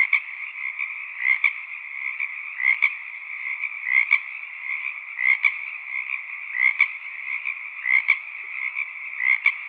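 A chorus of frogs calling steadily. One louder frog stands out over the rest with a short call repeated about every second and a quarter.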